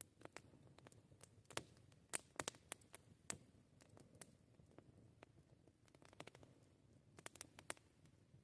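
Wood campfire crackling: irregular sharp pops and snaps, some bunched close together, over a faint low rumble.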